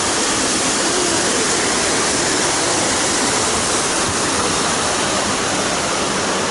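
Rushing white water: a loud, steady, unbroken rush of water.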